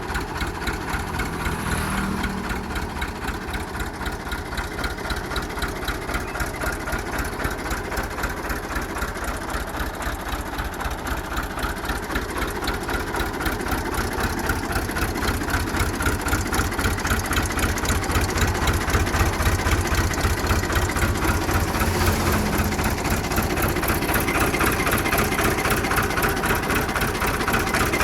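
Fiat 640 tractor's four-cylinder diesel engine idling with a steady, even chug, growing a little louder in the second half.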